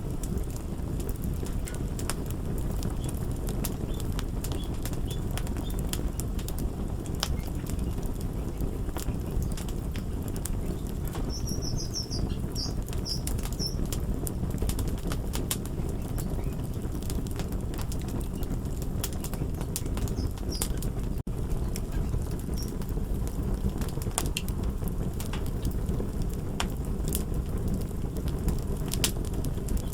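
Crackling fire: a steady low rumble of flames with irregular sharp pops and snaps throughout.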